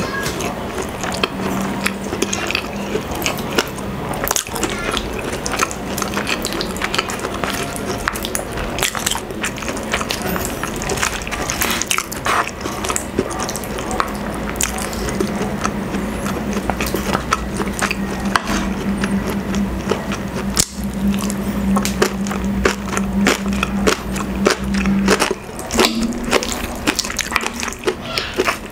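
Close-up wet chewing and lip-smacking of saucy, fatty braised pork hock and rice: a steady run of many small wet clicks and smacks, with light taps of wooden utensils.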